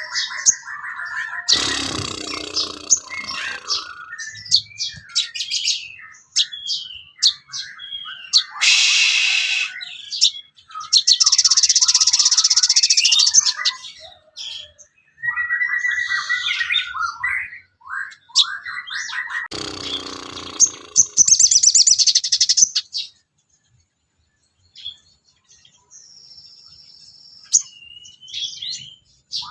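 Songbird song from a bird-training master recording: a varied run of chirps, whistles and short trills, broken by loud buzzy rattling phrases about a third of the way in, near the middle and about two-thirds through, then a brief pause before softer calls resume.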